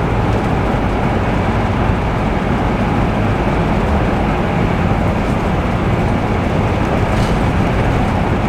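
Steady road and engine noise heard from inside the cab of a Class C motorhome driving along the road, an even rumble with tyre and wind hiss.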